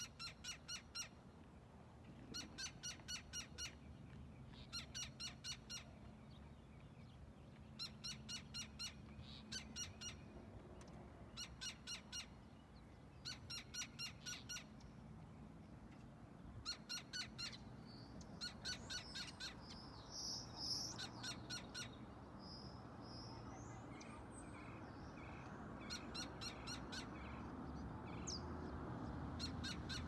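A bird calling loudly in repeated bursts of five or six quick, harsh notes, one burst every second or two: an alarm given by a bird guarding its nest. Around twenty seconds in, a few higher single chirps from another bird join in.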